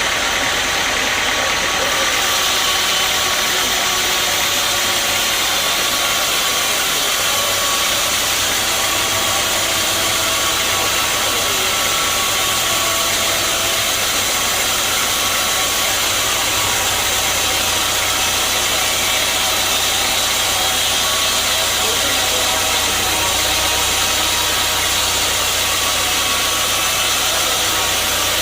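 Sawmill machinery running steadily: an engine-driven saw rig giving a loud, even noise with several steady tones over it.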